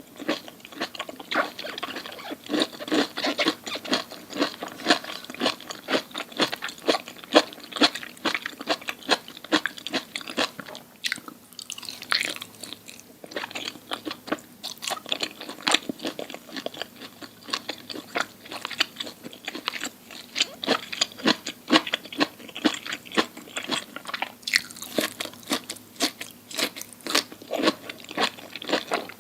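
Close-miked ASMR eating: a person chewing crunchy food, with rapid, continuous crunching and crackling between bites.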